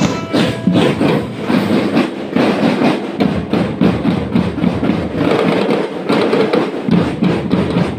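Marching band drum section playing a fast, busy beat, with dense drum strokes and no melody on top.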